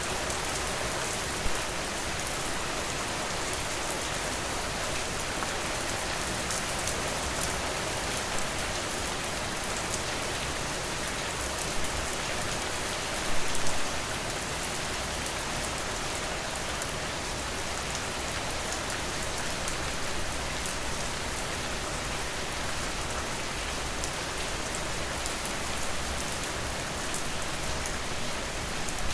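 Steady rain falling on a porch, an even hiss with many small drops. A few sharper pops stand out, a cluster of them about halfway through.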